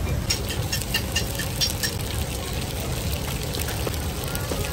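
Egg batter frying in a small pan on a gas ring, with scattered crackles and pops over a steady low rumble.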